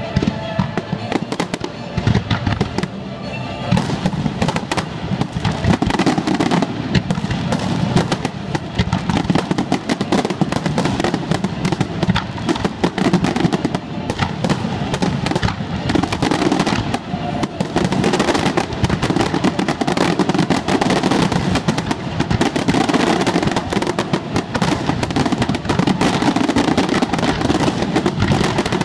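Fireworks finale: a dense, continuous barrage of aerial shell bursts and crackling reports, thickening after the first few seconds, with the show's music playing underneath.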